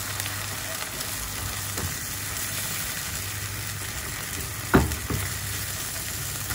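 Egg and ground chili paste sizzling in hot oil in a nonstick wok while a spatula stirs and scrapes through it. A sharp knock of the spatula against the pan comes about three-quarters of the way through, with a smaller one just after.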